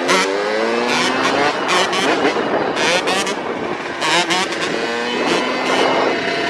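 Two-stroke dirt bike engines revving, several at once, their pitch rising and falling over and over as the throttles are worked.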